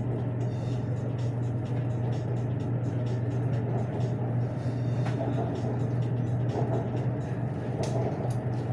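Steady running noise heard inside a Bangkok BTS Skytrain car as it moves out past a station platform: a constant low hum under an even rumble, with faint scattered ticks.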